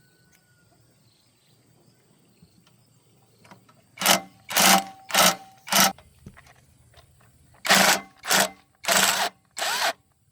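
A handheld power tool is run in short bursts, about four seconds in: four quick bursts, a pause of about two seconds, then four more.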